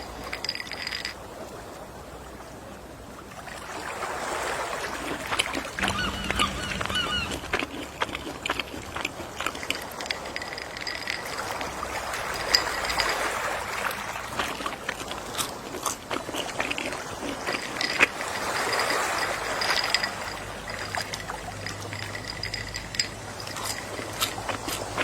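Gentle sea waves washing ashore in slow swells, with a few short seagull calls about six seconds in.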